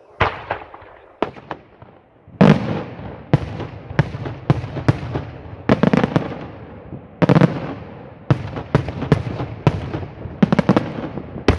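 Daytime fireworks battery: aerial shells bursting in a rapid series of sharp bangs, each trailed by echo. A few isolated bangs come first, then the bursts come thick and fast from about two seconds in.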